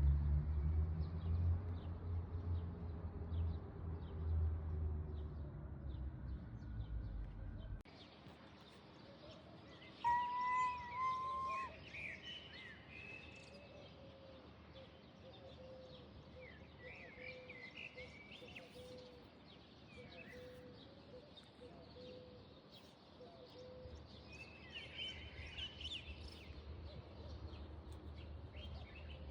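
Small birds chirping and calling in short, scattered phrases, loudest about ten seconds in, over faint outdoor background noise. A low rumble fills the first several seconds and cuts off abruptly.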